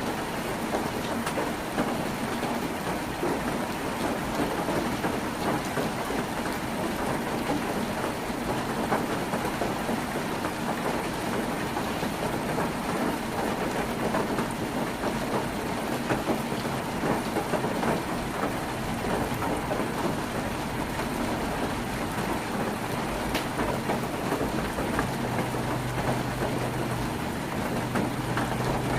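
Heavy rain drumming steadily on a tin roof, a dense even patter with scattered sharper drips. A faint low hum comes in near the end.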